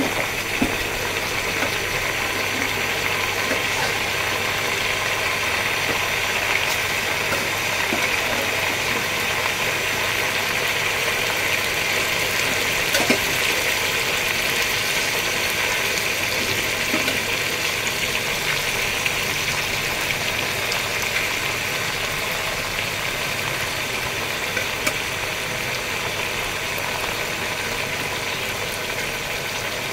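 Pieces of boiled mutton frying with browned sliced onions in hot oil in an aluminium pot: a steady sizzle with a low steady hum underneath.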